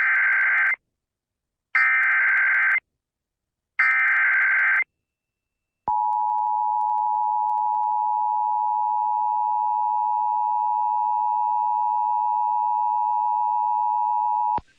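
Emergency Alert System tones broadcast on FM radio for a severe thunderstorm warning. First come three short bursts of the SAME digital header, each about a second long and about a second apart. Then the two-tone attention signal sounds, a steady dual tone held for nearly nine seconds, and it cuts off just before the end.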